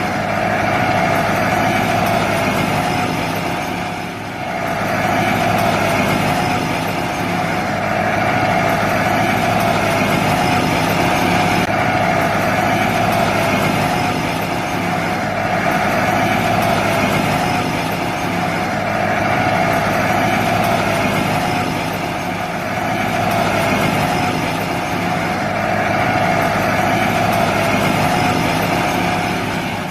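A small motor running steadily, with a constant high whine, dipping slightly in level now and then.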